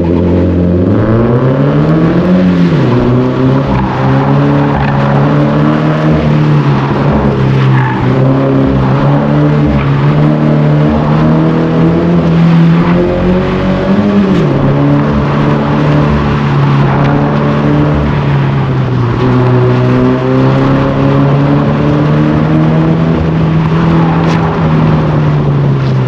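A car's engine held at high revs through an autocross run. Its note stays mostly steady, rising and dropping briefly about two seconds in and again near the middle.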